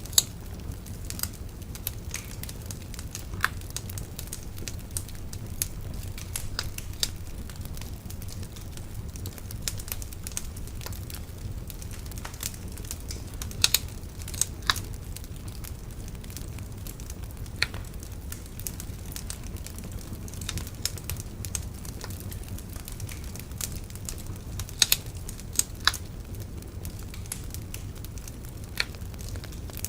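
Wood bonfire burning: a steady low rumble of flames with irregular crackles and snaps, and a few sharper, louder pops scattered through.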